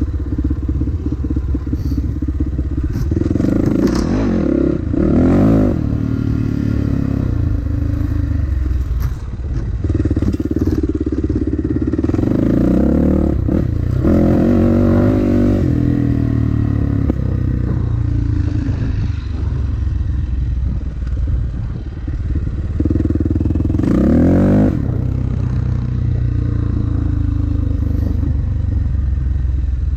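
Dirt bike engine running under load, its revs climbing and dropping several times as the throttle is opened and closed.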